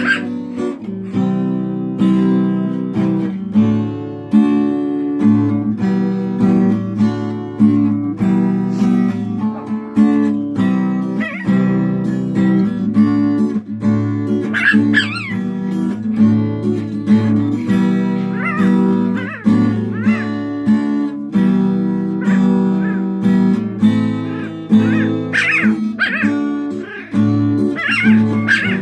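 Acoustic guitar playing chords, with a cat meowing along now and then: a few meows about halfway through and a run of them near the end.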